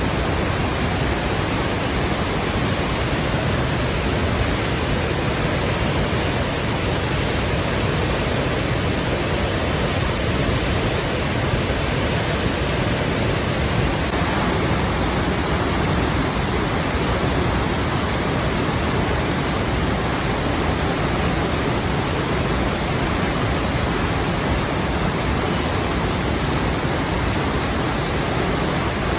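Flowing water making a steady, unbroken rush that holds the same level throughout.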